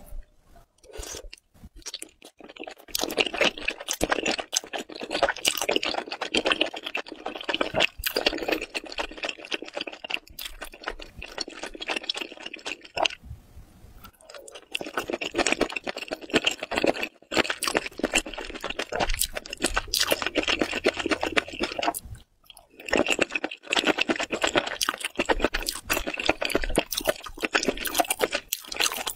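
Close-miked wet chewing of a spicy stew of noodles and chewy seafood, in dense runs of rapid mouth clicks and squelches, with short pauses about halfway through and again about three-quarters through.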